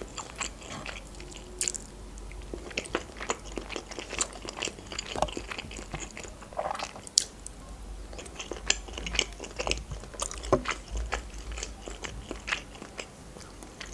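Close-miked chewing and wet mouth sounds of someone eating fusilli pasta in cream sauce, with scattered sharp clicks as a metal fork taps and scrapes in the frying pan.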